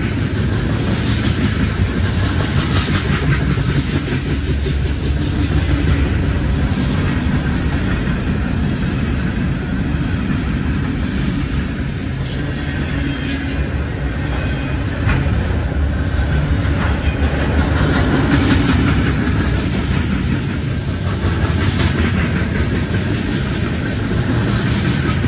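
Freight cars of a passing train rolling by: a steady low rumble of steel wheels on the rails, with a constant run of clicks as the wheels pass over the rail joints.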